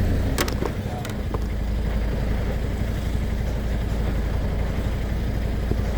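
Truck engine running steadily with a low rumble, and two sharp clicks about half a second and a second in.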